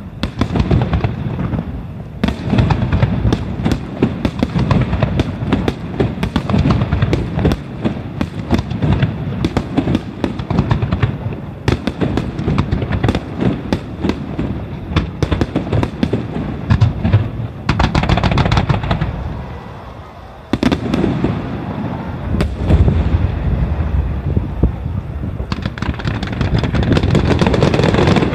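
Fireworks finale: a dense barrage of aerial shells bursting in rapid succession, bangs overlapping with crackle. There is a brief lull about twenty seconds in, then a near-continuous crackling barrage near the end.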